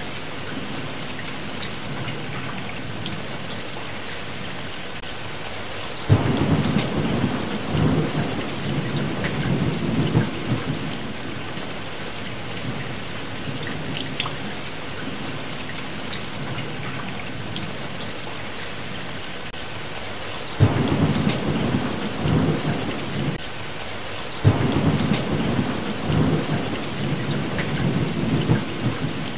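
Steady heavy rain, with three rolls of thunder. Each roll breaks in suddenly and rumbles for several seconds: one about a fifth of the way in, and two close together in the last third.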